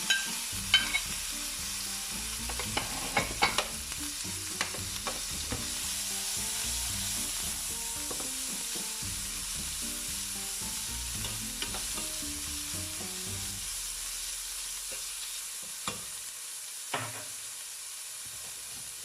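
Food sizzling as it fries in oil in a pan, with a utensil clicking against the pan several times in the first few seconds and twice more near the end.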